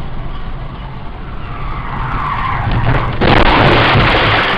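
A car's steady engine and road noise, then about three seconds in a sudden loud, harsh rush that lasts over a second before easing, a car skidding or hitting something in a traffic incident.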